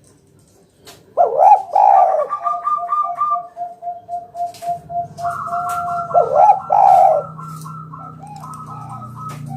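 Spotted doves cooing. After about a second of quiet come loud swooping coos, then fast trains of short repeated notes, with a second, higher-pitched bird overlapping from about halfway. A low steady hum comes in near the middle.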